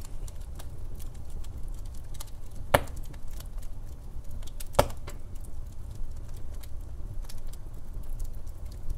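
Wood fire burning in a fireplace: a low steady rumble with constant small crackles, and two sharp louder pops about three and five seconds in.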